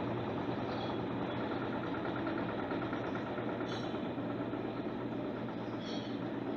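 Electrolux LTC10 top-loading washing machine running mid-cycle: a steady motor hum under a noisy churn, with a few short, faint high chirps.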